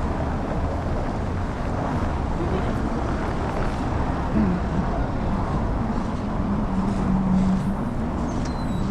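Steady downtown street noise: road traffic, with a low rumble that is heaviest in the bass, and a faint low hum in the second half.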